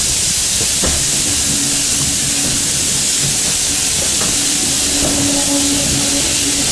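Heritage steam train running, heard from on board: a steady loud hiss over rumbling running noise. A steady low tone comes in about a second in and holds, joined near the end by a higher second tone.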